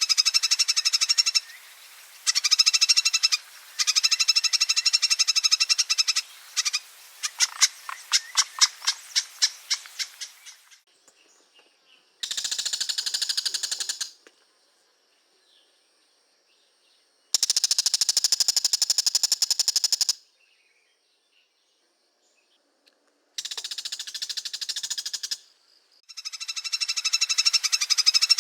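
Oriental magpie-robin (kacer) giving its long ngekek rattle: rapid rattling bursts of one to two seconds, separated by pauses. In the first third one rattle slows into separate pulses before breaking off.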